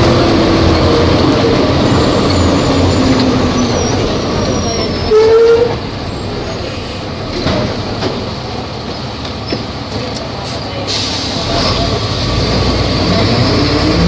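Volvo B270F bus's diesel engine slowing down, its pitch falling, then running quieter. About five seconds in there is a short, loud tone. Near the end the engine picks up again, louder.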